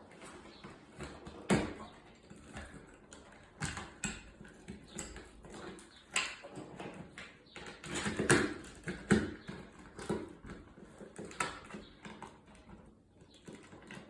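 Irregular knocks, clicks and clatter from hardware and fan parts being handled and fitted during ceiling fan assembly, with the loudest knocks about two-thirds of the way through.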